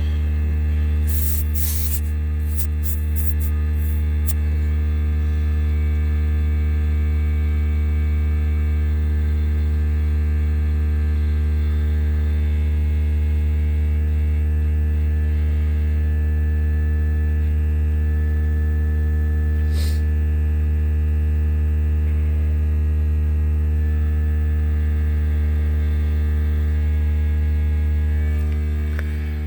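Steady, loud, deep electric motor hum, most likely the air compressor running while a tire is being filled, with a few short hisses or clicks about one to four seconds in.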